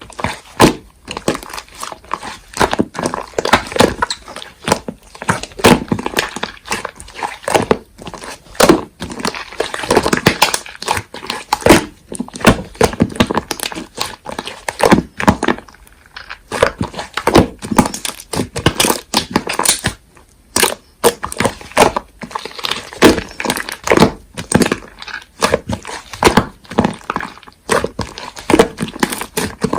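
Slime being squeezed and pressed by hand, giving a dense run of sticky clicks and pops with a short pause about twenty seconds in.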